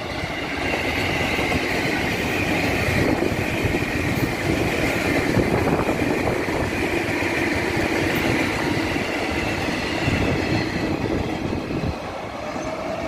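A KRL commuter electric train running past over a railway bridge: a steady rumble of wheels on rail with a high whine held over it.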